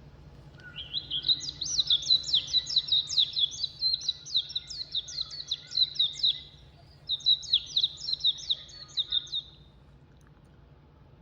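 A songbird singing two long phrases of rapid, high chirps, each note sweeping downward, with a short pause between the phrases; the second phrase is shorter.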